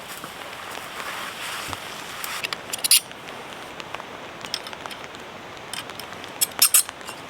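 Steady rain hiss, with sharp clicks or crunches breaking in, loudest in a short cluster about three seconds in and again near the end.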